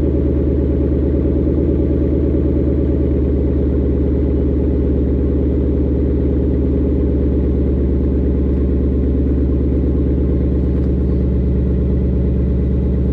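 2018 Mustang GT's 5.0-litre V8 idling steadily through a Thermal cat-back exhaust after a cold start, a deep, even exhaust note with no revving.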